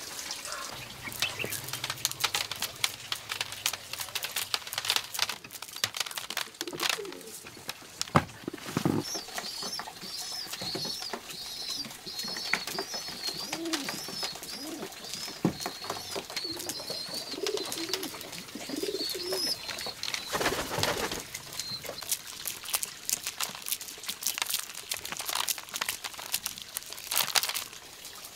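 Birds calling: low, repeated bending notes and, through the middle, a high warbling song, over frequent sharp clicks and knocks.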